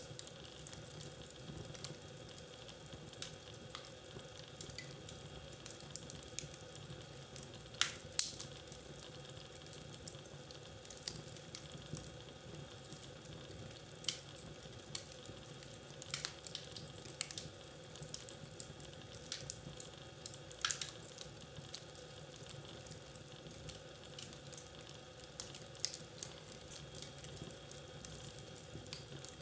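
Wood fire crackling in a fireplace: a steady soft hiss with scattered sharp pops and snaps, the loudest about eight seconds in.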